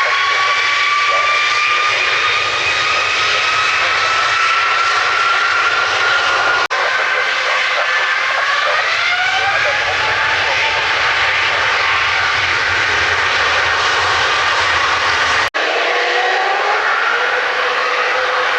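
Aircraft turbine engines powering up on the ground: a loud, steady rush of intake air with a whine that rises in pitch. The sound breaks off abruptly twice, and each time another engine's rising whine comes in.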